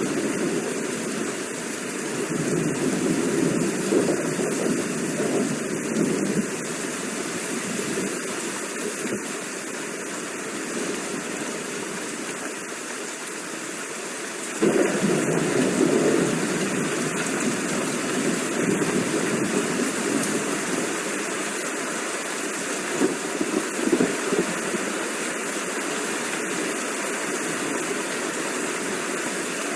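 Steady heavy rain, with low rolling thunder that swells and fades; a louder roll comes in suddenly about halfway through.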